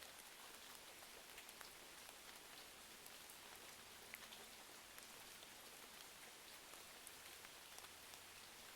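Faint rain and crackling-fireplace ambience: a steady hiss of rain with many small, scattered crackles and ticks.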